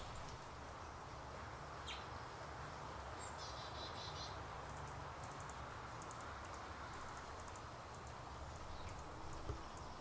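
Outdoor ambience with a steady low rumble, a short bird trill a little over three seconds in, and small birds giving scattered high, short chirps through the second half.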